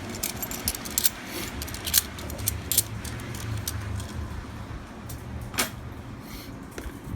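Half dollar coins clinking against each other as a new roll is opened and the coins are handled and stacked: a quick run of light metallic clinks over the first few seconds, then one more a bit past the middle, over a low steady hum.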